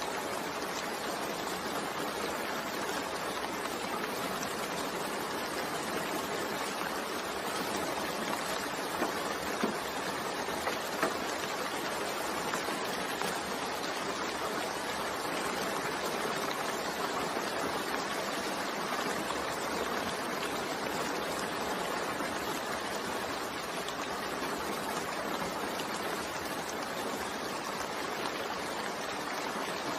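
Steady rain falling with an even hiss, and a few louder drops landing about nine to eleven seconds in.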